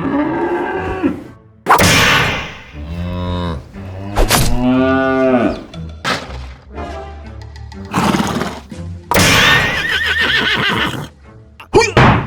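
A series of farm animal calls, among them horse whinnies, over background music.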